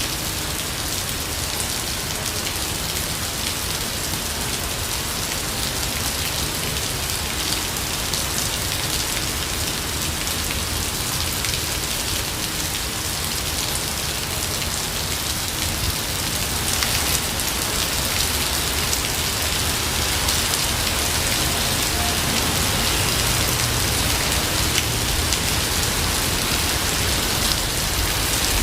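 Steady heavy rain falling in a dense, even patter, growing a little louder about halfway through.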